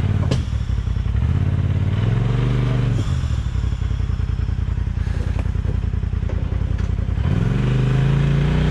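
Off-road vehicle's engine running near idle, revving up and back down about two seconds in and again near the end, with a few sharp knocks.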